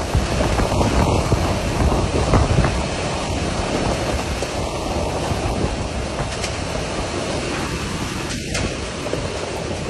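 Storm noise: wind and heavy rain battering the phone's microphone, a steady loud rush with heavy low buffeting.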